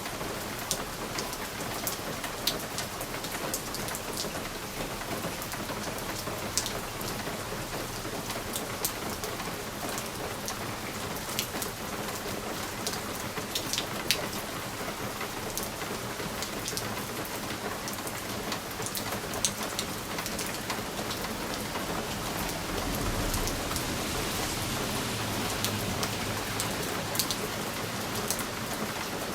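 Steady rain on a window pane, a continuous hiss with many sharp drop ticks against the glass. About three quarters of the way through, a low rumble swells up and lingers under the rain.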